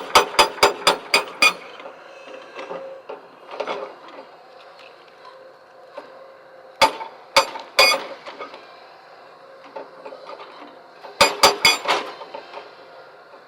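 Breaker hammer striking stone in three bursts of rapid sharp blows, about six a second, at the start, about seven seconds in and near the end, over a faint steady hum.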